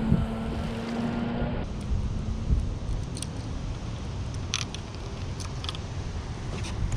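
Wind buffeting the microphone in a low rumble, with a steady hum that stops about a second and a half in and a few light clicks and knocks scattered through.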